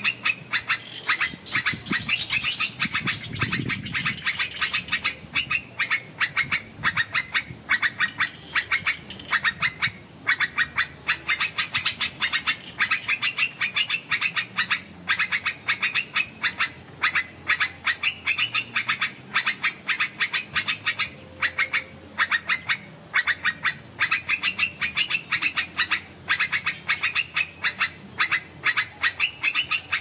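Birds chirping in a fast, steady run of short calls, several a second, with a brief low rustle about two to four seconds in.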